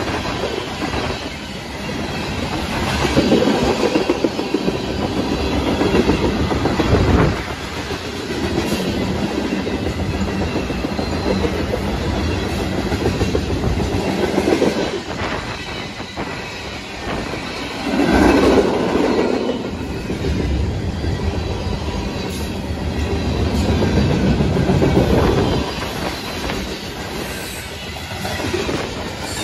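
Freight train cars rolling past close by: a continuous rumble of steel wheels on the rails with scattered clicks, swelling louder several times as cars go by.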